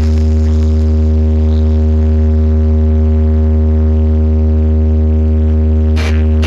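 DJ sound-check track: a loud, deep bass tone held steady for about six seconds, with drum hits coming back in near the end.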